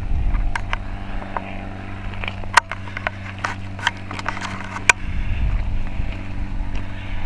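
A machine running with a steady low hum, with scattered sharp clicks and crunches over it; two louder clicks stand out partway through.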